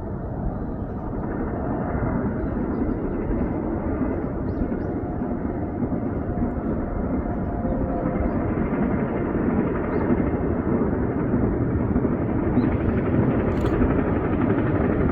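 A train's rumble, growing steadily louder as it approaches, with a few faint sharp ticks near the end.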